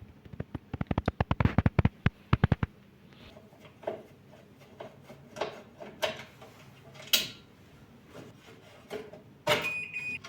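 Household handling sounds: a fast run of sharp clicks for about two and a half seconds, then scattered knocks and clicks, and a thump followed by a short electronic beep near the end.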